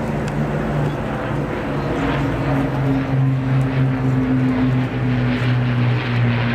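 Propeller engines of a large aircraft flying past: a steady, loud drone whose pitch drops about halfway through as it goes by.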